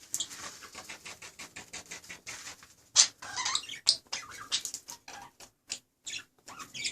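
Budgerigars in an aviary chattering, with a rapid run of short high chirps; the loudest comes about three seconds in.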